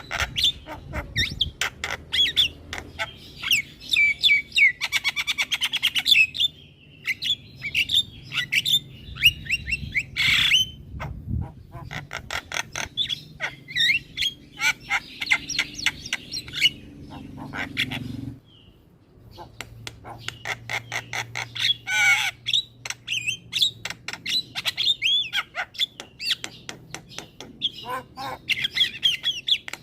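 Javan myna (jalak kebo) singing in full, active song: a dense stream of rapid clicks, chatter and harsh squawky notes, with a short pause a little past halfway.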